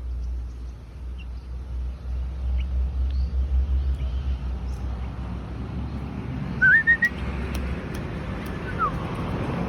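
Short whistled bird calls over a steady low wind rumble: one rising, warbled whistle about two-thirds of the way in, then a brief falling note near the end, with a few faint chirps earlier.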